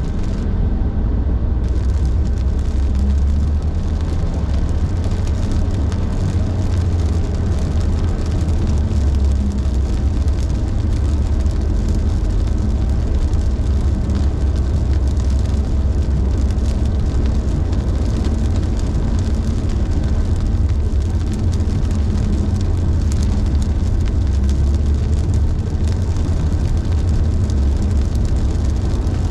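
A car driving on a highway, heard from inside the cabin: a steady low road rumble with an even hiss of tyres and road noise.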